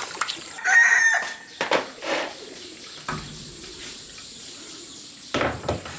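A chicken calls once, briefly, about a second in, amid scattered sharp knocks and rustling.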